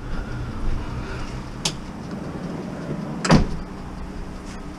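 Vehicle engine idling with a steady low hum, a sharp click about a third of the way in and a louder thud about two-thirds of the way through.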